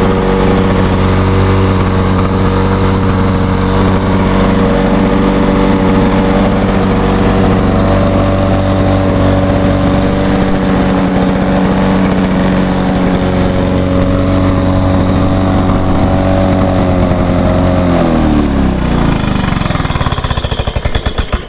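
Lawn-Boy 8461 Commercial mower's two-stroke engine running steadily soon after a cold start, then winding down about eighteen seconds in, its pitch falling until it stops near the end.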